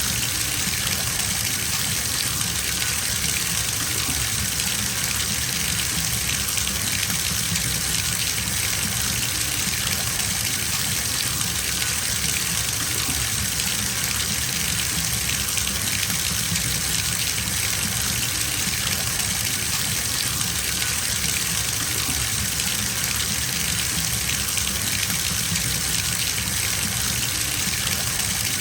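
Tap water gushing steadily into a filling bathtub, an even, unchanging rush.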